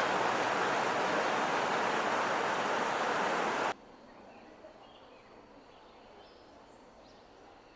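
A loud, steady rushing noise, like surf or falling water, that cuts off suddenly about four seconds in. A much quieter outdoor ambience follows, with faint scattered small sounds.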